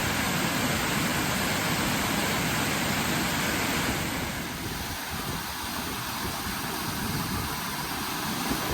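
Waterfall: a steady rush of falling water, a little quieter and thinner from about four seconds in.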